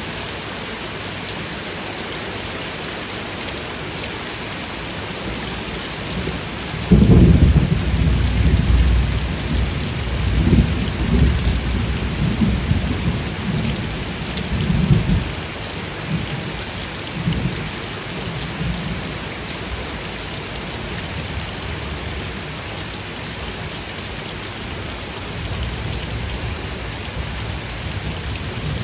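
Steady rain hissing, with thunder breaking in suddenly about seven seconds in and rolling in several low surges before it fades, then a fainter rumble of thunder near the end.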